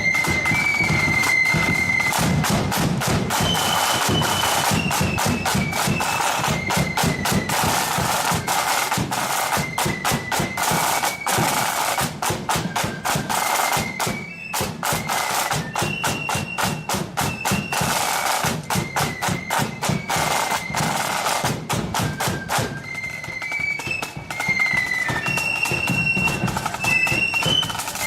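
Blood-and-thunder marching flute band playing a tune: flutes carry a high melody over fast rattling snare drums and a bass drum. The drumming breaks off briefly about halfway, and thins out for a moment near the end while the flutes play on.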